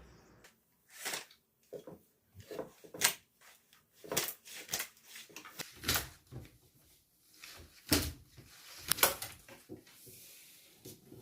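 Irregular sharp knocks and clicks of household things being handled and set down, the loudest about nine seconds in.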